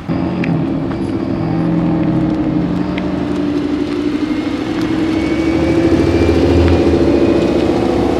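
A car engine running loud and steady, its note climbing slowly, with a deeper exhaust rumble swelling past the middle.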